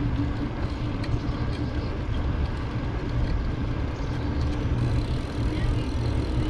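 Steady rumble of wind on the microphone and rolling noise from a bicycle riding along a paved road, with a faint steady hum.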